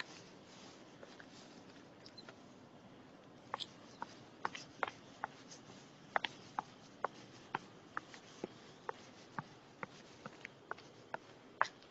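Footsteps on a forest path: sharp, short taps about two a second at walking pace, starting a few seconds in over a faint outdoor background.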